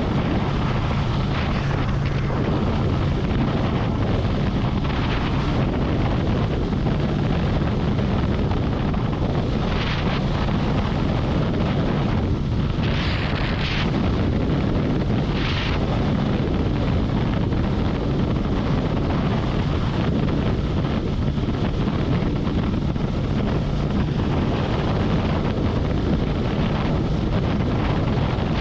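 Harley-Davidson Road Glide's V-twin engine running steadily at highway cruising speed, under heavy wind rush on the microphone. A few short hissing swells come and go about 10, 13 and 15 seconds in.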